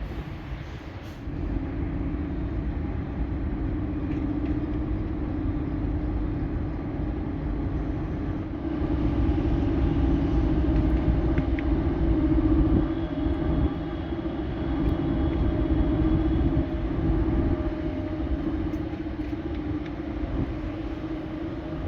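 Steady low rumble of a vehicle's engine running with a droning hum, growing louder about nine seconds in.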